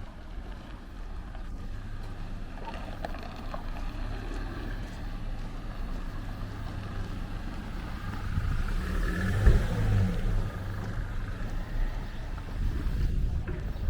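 A motor engine running steadily, swelling louder as it passes close about nine seconds in, then easing off.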